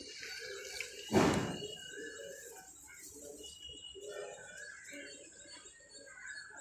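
Birds chirping and a pigeon cooing in the background, with one short loud burst of noise about a second in.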